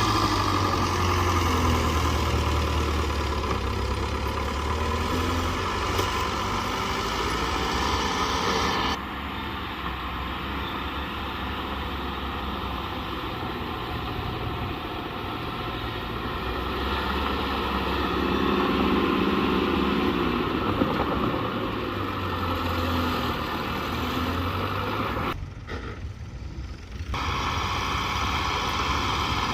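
Diesel engine of heavy earthmoving machinery running steadily, with low engine hum and mechanical noise. The sound changes abruptly about nine seconds in and dips briefly near the end.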